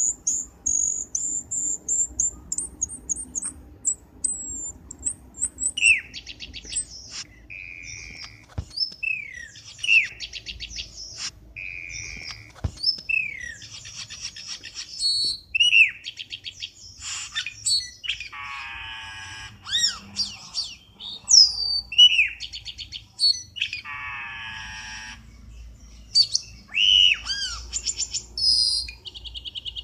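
Cucak keling bird-lure calls: a varied run of rapid high chirps, short whistled notes sliding downward, and harsh rasping calls.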